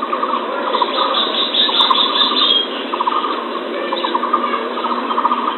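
A recording of bird calls: repeated quick runs of short pulsed notes over a steady hiss, with a few higher notes between them.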